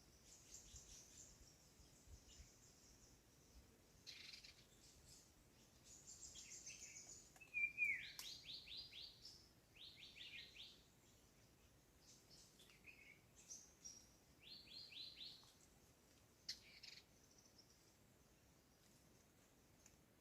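Several small birds singing faintly, with high chirps and short trills. A quick run of falling notes comes about eight seconds in and is repeated twice more later. Just before the first run, a single louder call glides downward.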